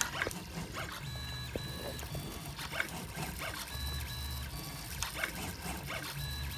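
3D printer's stepper motors whining as the print head moves, the pitch jumping from one steady tone to another with each move, with light clicks between.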